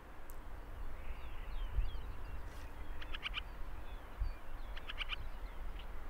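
Low, steady wind rumble with two quick series of short, high bird calls, about three and five seconds in, and a few faint chirps of other birds further off.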